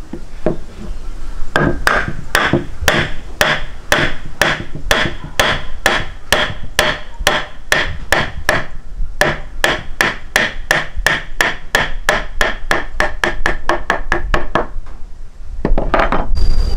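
A long run of evenly spaced sharp strikes with a ringing tone, about two to three a second, gradually speeding up, then stopping.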